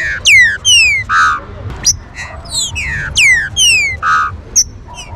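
Green-winged saltator (trinca-ferro) song: a rapid run of sharp, steeply falling whistled notes, several a second, with a couple of short buzzy notes among them.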